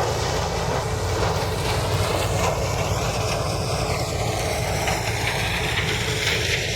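Heavy diesel engine of farm machinery running steadily under load, a constant low rumble with fast, even pulsing.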